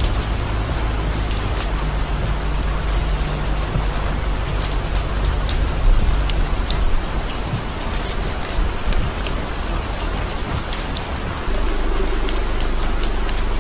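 Heavy rain falling on a moving car, heard from inside the cabin: a steady rush with many sharp drop ticks over the low rumble of the car on the wet road. The sound steps up a little louder near the end.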